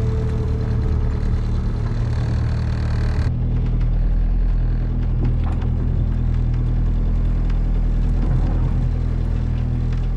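Sailboat's inboard engine running steadily under way with a low, even drone; the sound changes abruptly about three seconds in.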